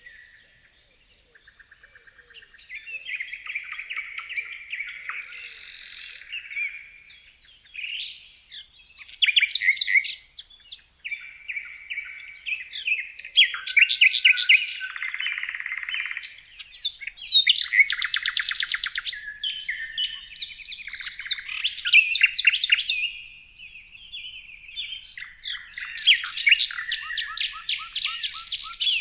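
Songbirds singing and chirping, several overlapping calls with quick trills and short chirped phrases following one another without pause.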